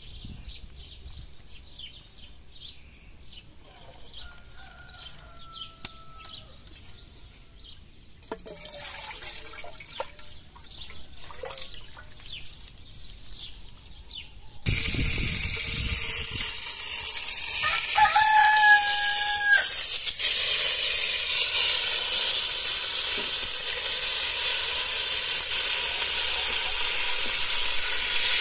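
Potato slices sizzling in hot oil in a steel pot, a loud steady hiss that starts abruptly about halfway through. Before it there are quieter small-bird chirps and a rooster crowing, and a rooster crows once more over the sizzling.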